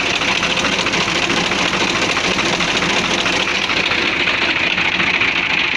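Fiat 480 tractor's three-cylinder diesel engine idling steadily.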